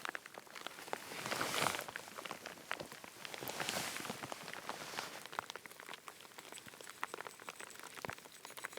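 Rain falling, with many irregular drop ticks over a steady hiss. There are brief louder swells of rustling about one and a half and four seconds in.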